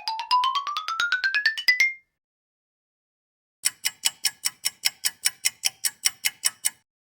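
Two synthetic sound effects from a video-editor library. First comes a fast run of electronic tones climbing steadily in pitch, which stops about two seconds in. After a short gap, a steady, rapid string of bright ringing electronic pulses follows, about six a second, for about three seconds.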